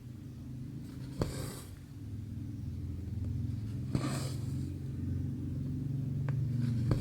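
Embroidery thread pulled through cross-stitch fabric: two short swishes, each starting with a sharp click of the needle, and another click near the end, over a steady low hum.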